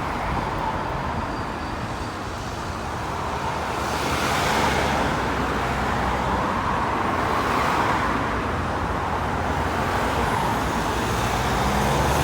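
Road traffic: vehicles driving past on a street, the tyre and engine noise swelling about four seconds in and again near eight seconds.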